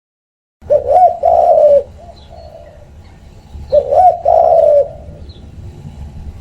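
Pigeon cooing: two coo phrases, each a short note then a longer one, the first about half a second in and the second about two-thirds of the way through, over a low steady background noise.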